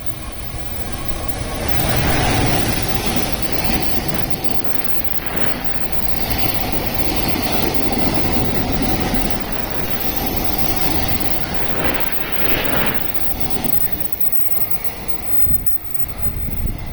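Train running through the station: a loud rumble of wheels on rail that builds over the first two seconds, holds with swells and occasional knocks, then eases off near the end.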